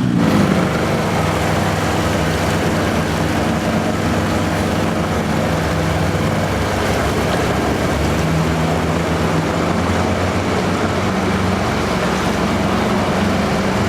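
A small boat's motor running steadily under way, its revs climbing right at the start.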